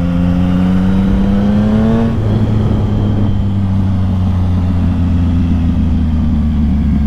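Yamaha MT-09 inline-three motorcycle engine pulling hard under acceleration, its pitch rising for about two seconds. The pitch then drops and holds steady as it cruises on.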